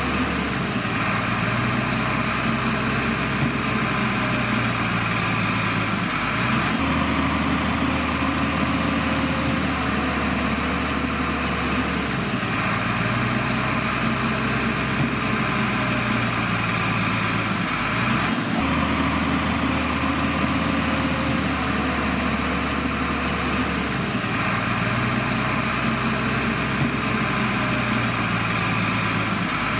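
Heavy diesel engine of a Shantui bulldozer running under work. The low engine note steps up and down in a regular cycle, changing about every six seconds.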